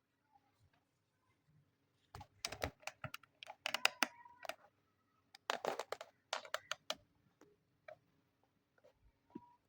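Quick clusters of light clicks, taps and rustles as small plastic pieces of a miniature toy kitchen set are handled. They start about two seconds in and thin out to a few scattered taps after about seven seconds.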